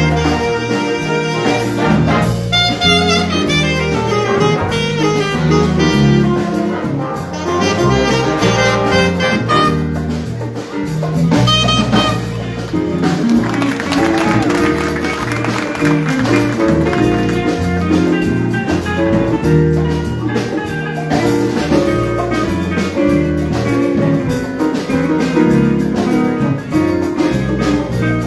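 High school jazz ensemble playing live: saxophones and brass over bass and drum kit, with a busy horn passage in the first half.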